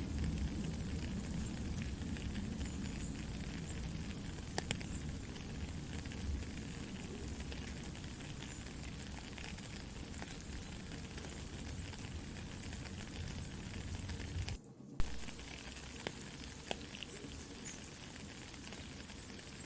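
Steady rain pattering together with a crackling campfire: a continuous hiss dotted with small pops and snaps. The sound breaks off briefly about three-quarters of the way through, followed by one sharp, loud pop.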